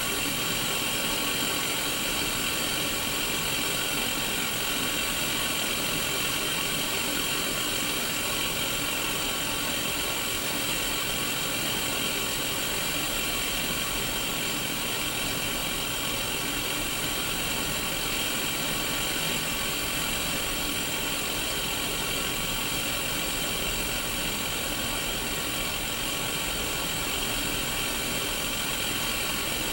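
Static hiss from a Sony Mega Watchman black-and-white mini CRT TV, a steady, even white noise that is brightest in the upper mids.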